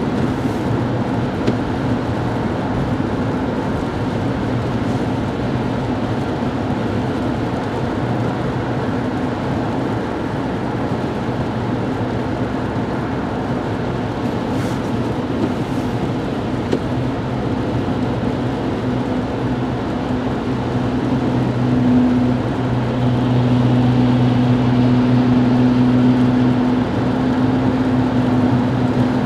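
Car interior road noise while driving on a highway: a steady engine hum over tyre and road rumble, the engine note growing louder about three-quarters of the way through.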